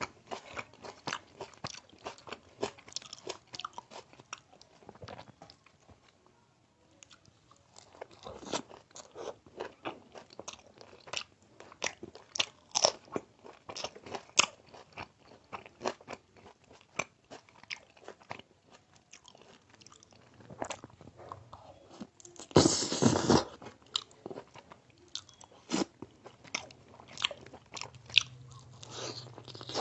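Close-miked eating: crisp, crunchy bites and chewing of Indian food, irregular throughout, with a short lull around six seconds in. About 23 seconds in there is one louder, second-long burst of crunching noise.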